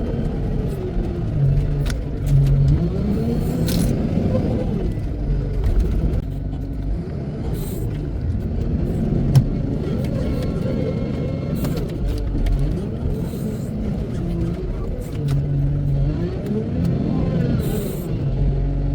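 Wheel loader's diesel engine working, revving up and easing off again and again, its pitch rising and falling every few seconds, with scattered short clicks.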